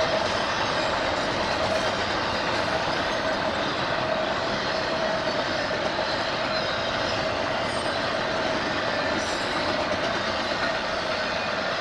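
A train rolling past, with a steady, unbroken noise of wheels on rail and a held tone underneath.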